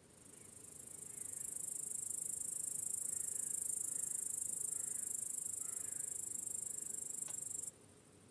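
A cricket trilling very high-pitched, a steady fast-pulsing trill that swells in over the first second or two, holds, and stops abruptly near the end. Faint background meadow ambience continues under it.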